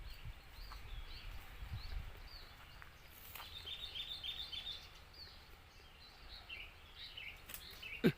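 Wild birds chirping and calling in quick short notes, busiest about three to four seconds in, over a low rumble in the first two seconds. One sharp click sounds just before the end.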